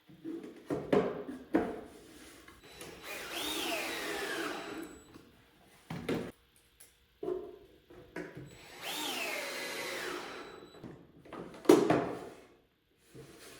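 Power drill driving screws into wood twice, each time about two seconds long. The motor whine climbs quickly and then sinks as the screw bites and seats. Short wooden knocks come between the runs as the pieces are handled.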